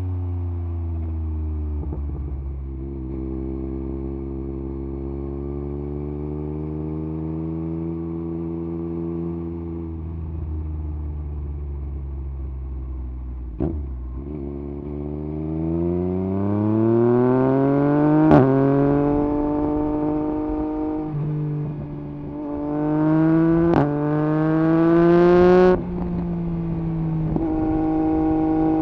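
Yamaha MT-09 SP's three-cylinder engine through an Akrapovič exhaust with its dB killer removed, running steadily at low revs for about half the time. It then accelerates with rising pitch, with sharp cracks at gear changes, and near the end the throttle is shut suddenly before it settles back to a steady run.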